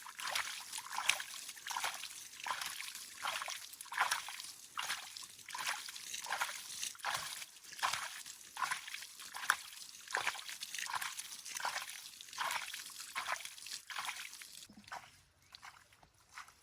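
Water sloshing in short strokes, about two a second, stopping near the end.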